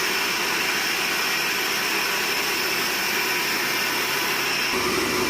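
Sawmill machinery running steadily: an even mechanical whine and rush with a few constant high tones, deepening slightly near the end.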